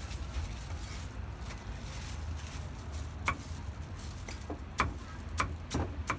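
Cleaver chopping on a wooden board: a pause, then a few single strikes in the second half that come faster near the end, over a steady low hum.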